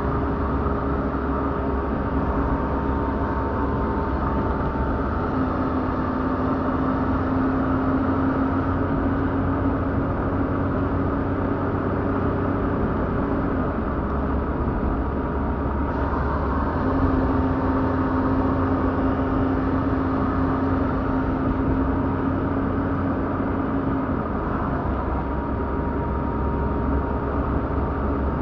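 Car running on the road: steady engine and road noise, with the engine note shifting a few times.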